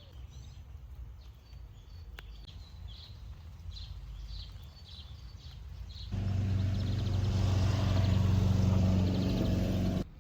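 Small birds chirping over a low rumble. About six seconds in, a loud steady engine-like hum starts abruptly and cuts off just as suddenly about four seconds later.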